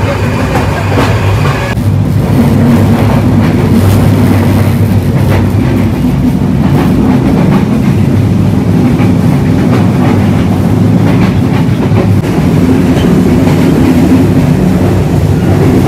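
A moving passenger train heard from inside the carriage: a steady, loud rumble of wheels on the track, which grows louder about two seconds in.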